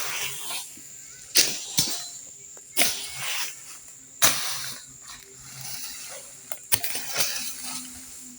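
Brush being hacked with a blade: about six sharp strikes at irregular intervals, each followed by a brief rustle of leaves and twigs.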